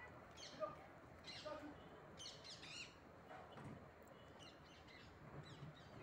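Faint birdsong: many small birds chirping in short, quick high runs.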